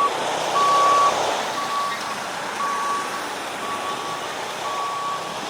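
A vehicle's reversing alarm beeping about once a second, one steady tone per beep, over a rushing background of engine and traffic noise that is loudest in the first second.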